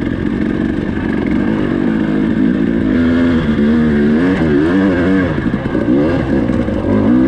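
Dirt bike engine running while riding, its pitch rising and falling again and again from about three seconds in as the throttle is worked.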